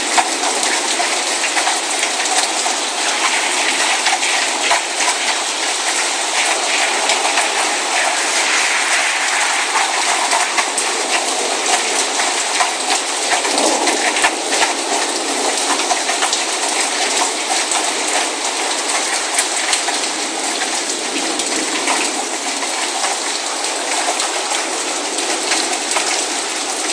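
Rain falling steadily, a constant hiss with many close drops ticking against nearby surfaces.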